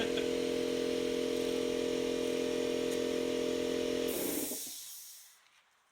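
A motor-driven machine running steadily with an even hum, then cutting off about four seconds in with a short burst of hiss as it winds down.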